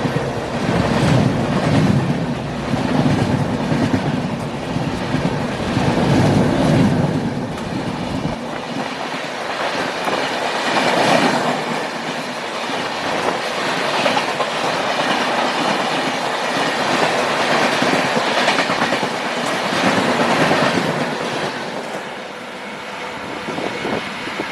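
Passenger train running along the track: a steady rumble and rattle of the wheels on the rails. The deep part of the rumble drops away about eight seconds in.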